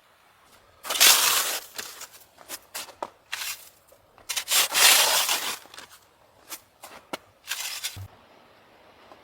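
Irregular crunching and rustling noises: two long bursts, about a second in and around the middle, with shorter scrapes and clicks between them.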